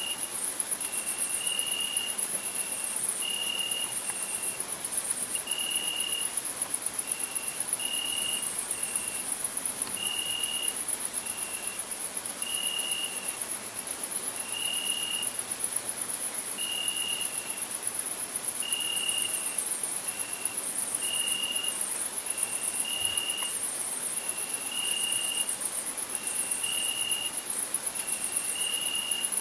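Crickets chirping, a dense, very high, fast-pulsing trill that never stops. A second, lower short note repeats about every second or two throughout.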